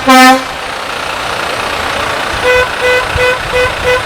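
A deep vehicle horn blast that cuts off a moment in, then, after a couple of seconds, a higher horn honked in short repeated beeps, about three a second.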